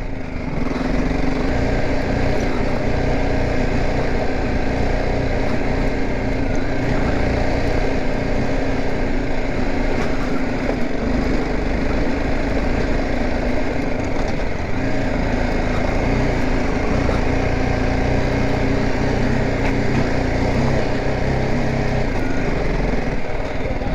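BMW G 310 GS single-cylinder engine running steadily at low speed while the motorcycle is ridden over a rough road, its pitch rising and falling slightly, with wind and road noise underneath.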